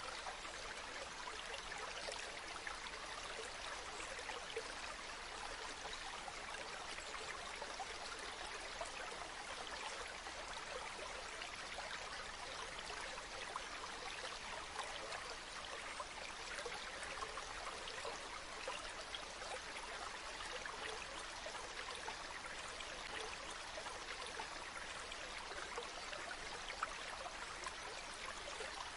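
Running water flowing and splashing in a steady, even hiss, with fine droplet patter through it.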